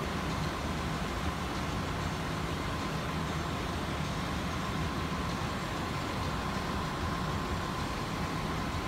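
Walt Disney World monorail running, heard from inside the car: a steady rumble and hiss with a constant high whine.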